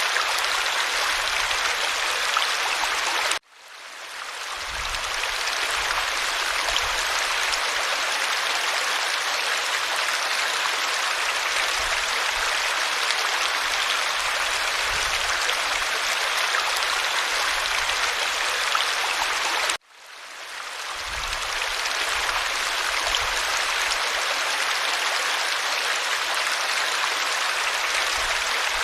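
A creek's running water makes a steady rushing and babbling. Twice the sound cuts out abruptly and fades back in over a second or two.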